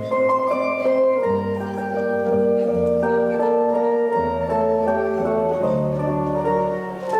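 Instrumental music on an electronic organ: sustained chords held over a bass line that steps to a new note about every second.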